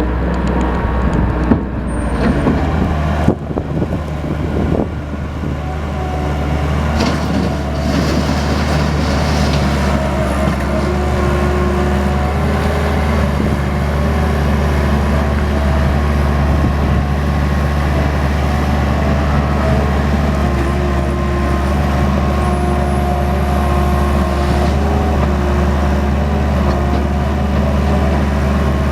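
Mustang 2060 skid steer's engine running steadily, with a few knocks and clatters in the first several seconds.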